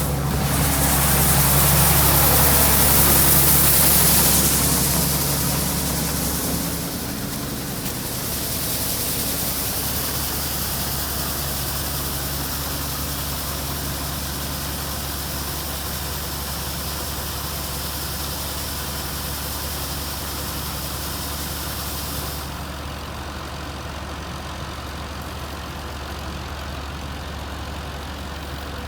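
A heavy engine of harvest machinery running steadily. A loud hiss rides over it for the first few seconds and then eases, and the hiss drops away sharply about three-quarters of the way through while the engine runs on.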